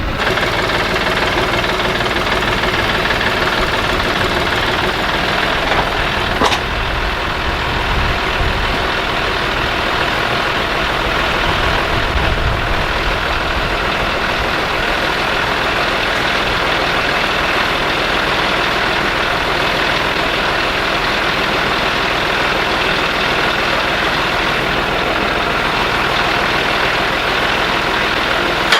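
A motor vehicle engine running steadily close by, with one sharp metallic knock about six and a half seconds in.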